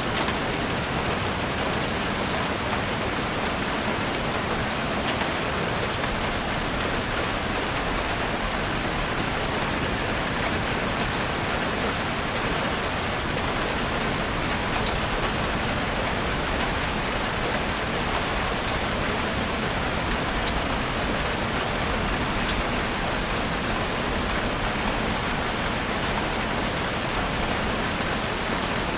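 Heavy rain drumming steadily on a roof: a dense, even hiss with fine scattered drop hits and no break.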